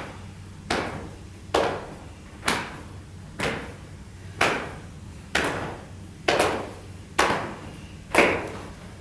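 Regular sharp knocks, about one a second, each dying away quickly.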